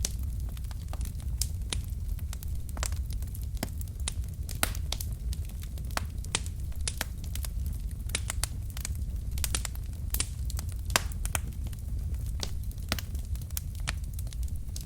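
Wood fire burning in a fireplace: logs crackling and popping with many sharp, irregular snaps over a low, steady rumble of the flames.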